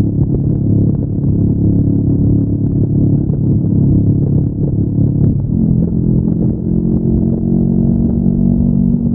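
Honda NX500 motorcycle's parallel-twin engine with stock exhaust, running under way at a steady note, the pitch dipping and then settling a little higher about five seconds in.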